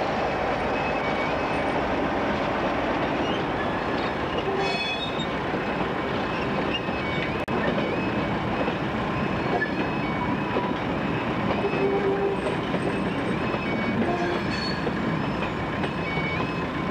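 A freight train of vans and tank wagons rolls steadily over a level crossing with a dense rush of wheel-on-rail noise, and a few brief high wheel squeaks. Over it, the crossing's two-tone warning alarm warbles up and down at an even rhythm.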